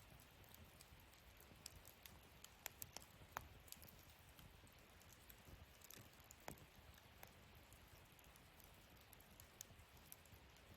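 Wood fire burning in a fire-pit stand, crackling faintly: scattered small pops and snaps over a low steady hiss, with a few sharper snaps about three seconds in and again about six and a half seconds in.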